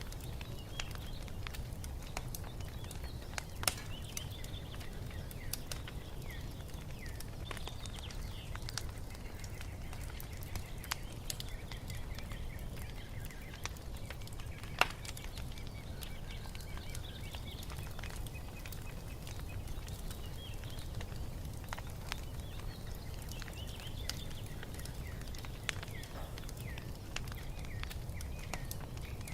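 Wood fire crackling, with scattered sharp pops over a low steady rumble; the loudest pop comes about 15 seconds in. Small birds chirp and twitter throughout.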